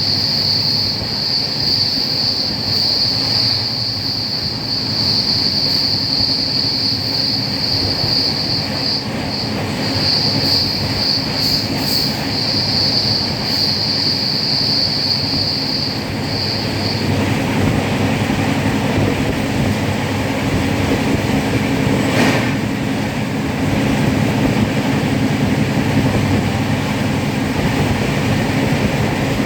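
Train running on the rails, with a steady high-pitched whine over the noise for the first half or more, like wheel squeal, that stops about two-thirds of the way through. After that a heavier rumble of wheels builds, with one sharp knock a few seconds later.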